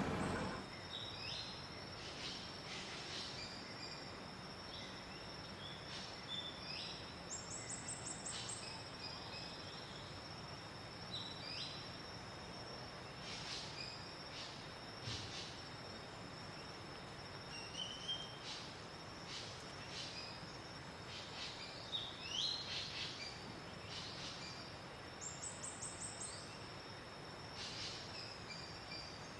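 Tropical rainforest ambience: a steady high insect drone under many short bird chirps and downward-sweeping calls, with a rapid high trill heard twice.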